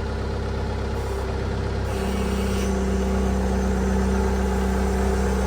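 Skid-steer loader's engine running steadily; about two seconds in its sound changes and grows a little louder.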